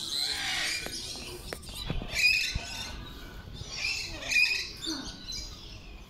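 Birds squawking: a few harsh calls, one in the first second and shorter ones about two and four seconds in.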